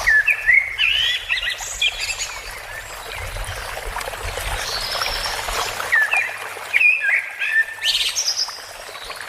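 Songbirds singing: a burst of quick, sweeping whistled phrases at the start, a quieter stretch, then more phrases from about six seconds in, over a steady background hiss.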